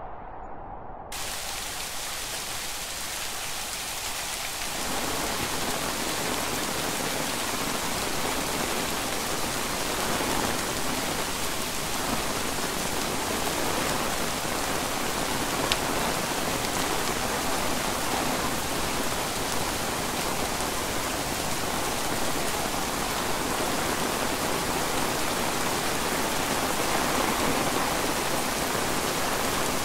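Heavy rain falling steadily on pine trees and undergrowth, a dense even hiss that builds up over the first few seconds and then holds.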